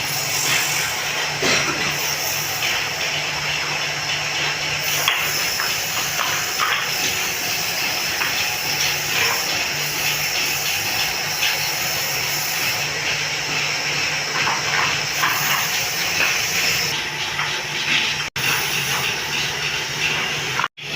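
A woodworking power tool running steadily: a motor hum under a loud, even hiss, cut off briefly twice near the end.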